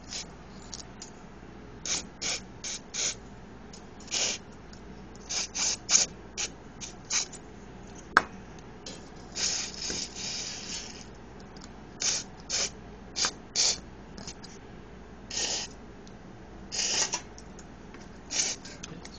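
RC nitro engine being cleaned: a run of short, irregular hissing scrubs or sprays, one lasting about a second and a half around the middle, with a single sharp click a little after eight seconds.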